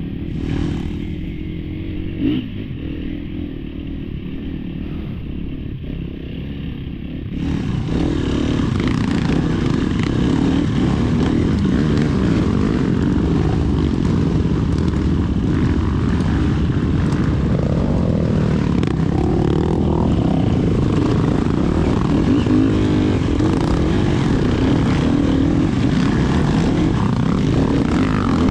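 Off-road motorcycle engine running under way, its revs rising and falling. The sound gets suddenly louder and fuller about seven and a half seconds in.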